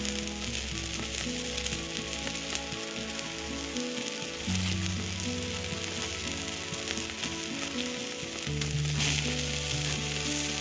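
Food sizzling steadily as it fries on a hot grill or pan, with fine crackling throughout. Background music with low sustained notes plays underneath.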